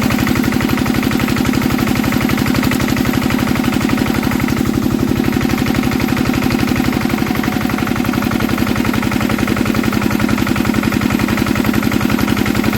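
Old Enfield stationary diesel engine running steadily, with a fast, even beat of firing pulses.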